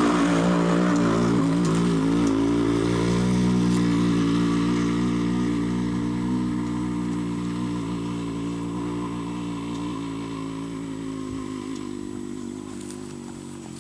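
A motor vehicle's engine running steadily, then fading gradually as it moves away along the road.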